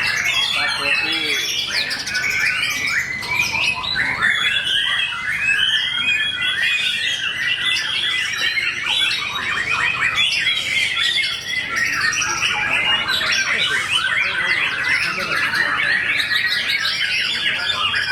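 Caged white-rumped shamas (murai batu) singing continuously in a contest, several birds' fast, varied song phrases overlapping into a dense chorus.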